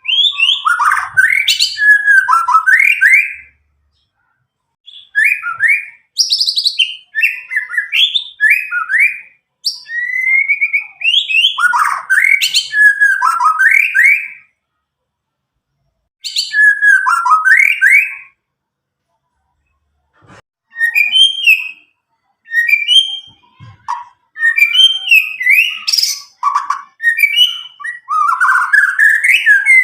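White-rumped shama (Medan murai batu), a young bird just past its juvenile spotted plumage, singing loud, clear phrases of quick whistled and chattering notes. The phrases come in bursts of two to four seconds with pauses of one to two seconds between them, and a long busy phrase in the last third.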